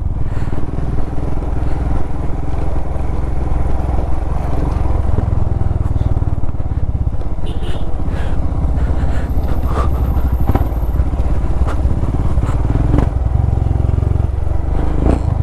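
Motorcycle engine running steadily under way, a loud continuous low-pitched pulsing with road noise, and a few faint clicks midway.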